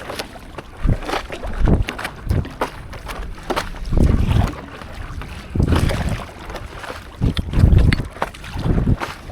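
Stand-up paddleboard paddle strokes in seawater, splashing in an uneven rhythm about once a second, with wind rumbling on the microphone.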